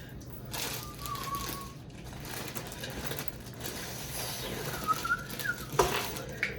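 A person making two thin, high whistling sounds through the lips, in pain from the burning heat of the hot pepper nut, with a short knock near the end.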